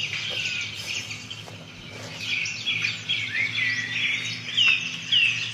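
Songbirds chirping and singing: a busy run of quick chirps and short whistled notes, over a steady low hum.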